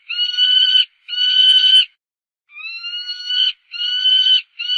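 Falcon calling: a series of about five high-pitched screams, each under a second long, the one after a short pause in the middle rising slightly in pitch.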